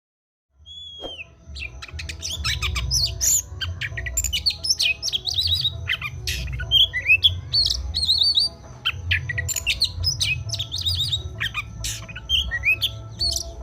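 Oriental magpie-robin (kacer) singing a fast, varied, unbroken string of whistles, slurred notes and harsh chattering calls, the energetic 'fighting' style of song used as a lure to get a silent kacer to sing. It starts about half a second in, over a steady low rumble.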